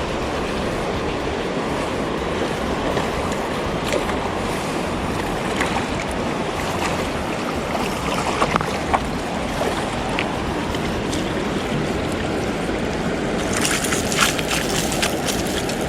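Rushing river water, a steady hiss of a fast-flowing stream, with a few sharp clicks about halfway through and a brighter crackling stretch near the end.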